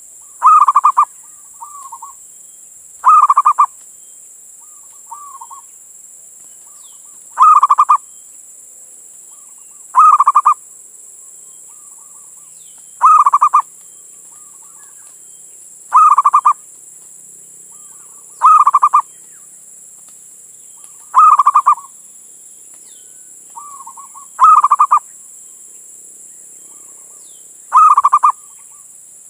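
Male zebra dove (perkutut) cooing. There are about ten loud, short phrases, one every two and a half to three seconds, with fainter short coos between some of them, over a steady high hiss.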